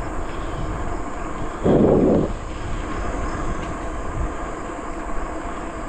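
Steady wind and tyre noise of a bicycle riding along a trail, with insects buzzing steadily in the background. A brief louder burst of noise comes about two seconds in.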